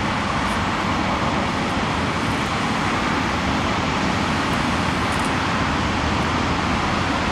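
Train led by an electric locomotive rolling past, a steady rumbling noise.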